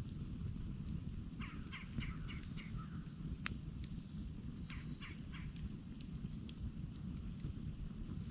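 Campfire burning with a steady low rush and scattered crackles, one sharp pop about three and a half seconds in. A bird calls a quick run of about six short notes early on, then three more a little later.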